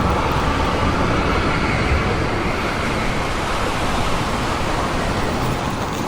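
Steady outdoor ambient noise, an even rush with a low rumble and no distinct events.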